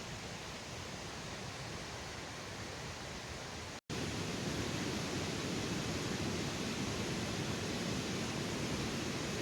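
Steady rushing noise of running water, even and without clicks. A brief dropout to silence about four seconds in, after which the rushing is louder and fuller.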